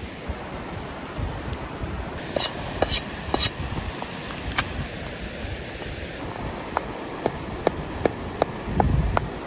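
Cooking utensils knocking against cookware: three sharp clicks, then a run of light taps a little over two a second, over a steady rush of wind.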